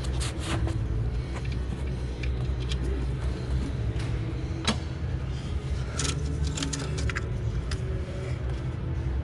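Scattered metallic clicks and clinks of hand tools and loose parts being handled during engine disassembly, several in quick succession near the end, over a steady low hum.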